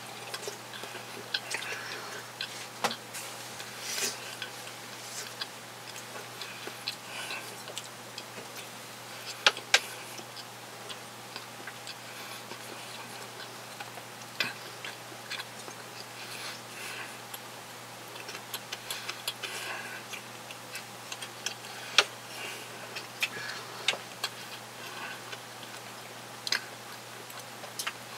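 A man chewing a sausage sandwich with his mouth closed: soft wet mouth clicks and smacks at irregular moments, with a few sharper clicks, over a steady low hum.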